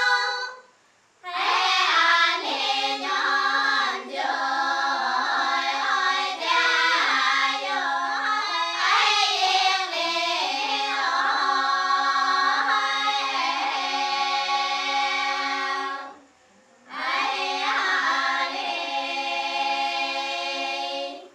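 Dong women's choir singing a polyphonic Grand Song unaccompanied. Several voices sing in parts, with a low held note beneath moving upper lines. The singing breaks off briefly about a second in and again around sixteen seconds in, then starts again.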